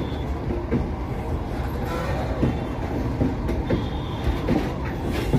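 Freight train container wagons rolling past at close range. Steel wheels rumble steadily on the rails, with irregular knocks and clanks from the wheels and running gear.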